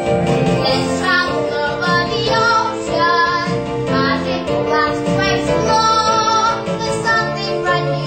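Children singing a song with instrumental accompaniment, the voices moving from note to note over steady held chords.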